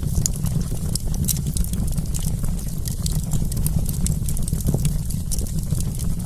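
Wood fire crackling: a steady low rumble of the flames with many small, sharp pops and snaps scattered irregularly throughout.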